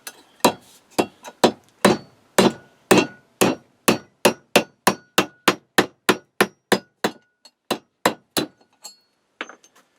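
Hammer blows on a pin punch, driving an old handle pin out of a cast iron workbench. The blows come fast and even, about four a second, each with a short metallic ring. The last few are lighter, and they stop near the end.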